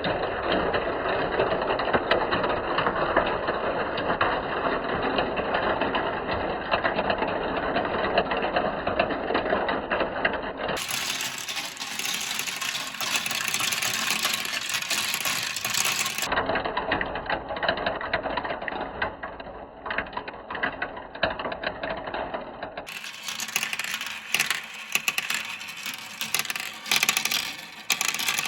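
Many marbles rolling and clattering down a plastic marble-run slope track: a dense, continuous rattle of rapid clicks, which thins near the end into sharper separate clicks.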